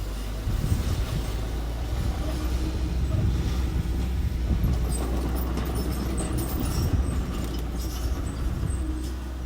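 Small construction machine's engine running steadily with a low rumble, with light metallic clanks and rattles through it.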